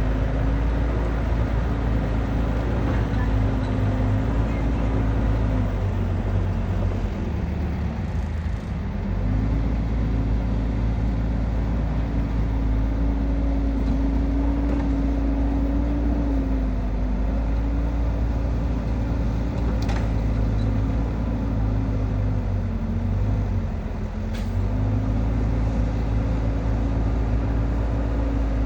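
Kubota DC70 rice combine harvester's diesel engine running steadily under working load, its pitch sagging briefly twice, once about a quarter of the way in and again near the end.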